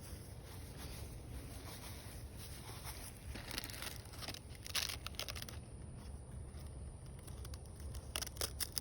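Dry leaves crinkling and crackling in irregular short bursts as they are handled and torn, over a steady low rumble.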